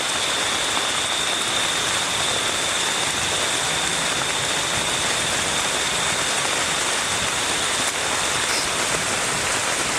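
Heavy rain falling steadily, an even hiss with a steady high-pitched note running beneath it.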